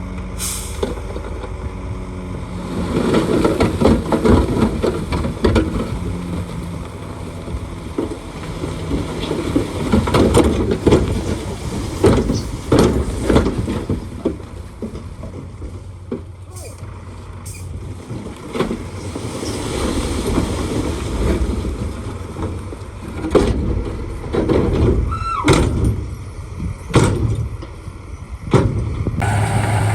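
Shantui D95 crawler bulldozer at work: its diesel engine runs steadily under many sharp metal clanks and knocks, with a brief rising squeal near the end.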